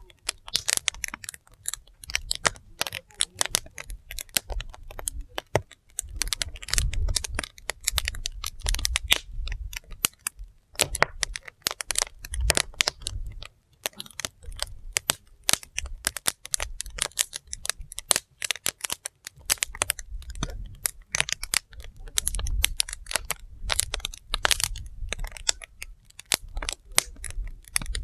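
Wood fire burning, the logs crackling and popping in dense, irregular snaps, with a low rumble swelling and fading now and then.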